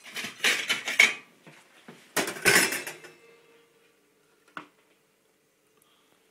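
Clinking and clattering of crockery and metal utensils in two short bursts, then a single knock.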